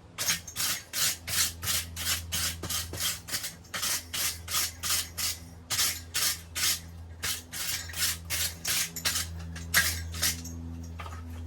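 Quick back-and-forth scraping strokes on metal, about three a second, that stop about a second before the end. A steady low hum runs underneath.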